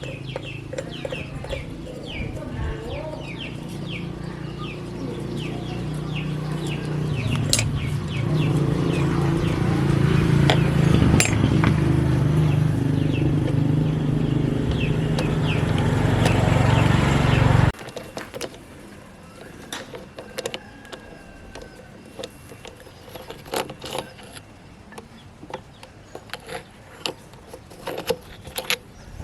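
A motor runs steadily with a low hum, growing louder, then cuts off abruptly about two-thirds of the way through. Birds chirp over it early on, and after the cut come scattered light taps and clicks.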